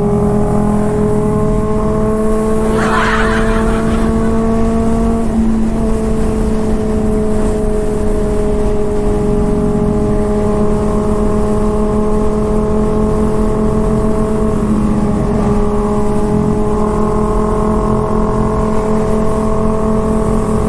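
Honda CBR600RR's inline-four engine with a loud aftermarket exhaust, running steadily at cruising speed over the rush of wind on the rider's microphone. The engine note dips and shifts briefly about five seconds in and again near fifteen seconds.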